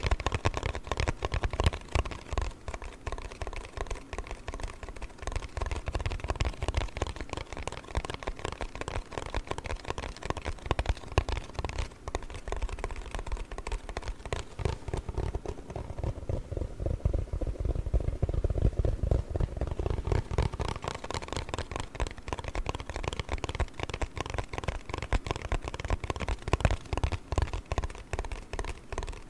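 Rapid tapping and scratching on a cardboard box, a dense, unbroken run of quick clicks.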